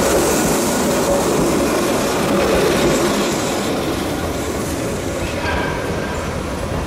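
Keihan Ishiyama-Sakamoto Line two-car train running past on street-level track, its wheels on the rails, then moving away with the noise slowly fading.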